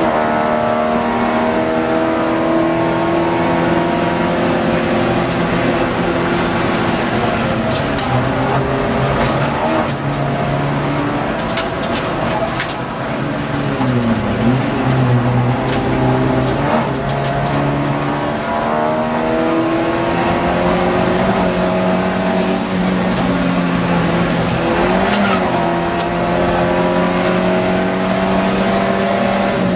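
Ford Fiesta XR2 race car's four-cylinder engine at racing speed, heard from inside the cabin, its pitch climbing and falling back with gear changes and braking for corners. There are a few sharp clicks along the way.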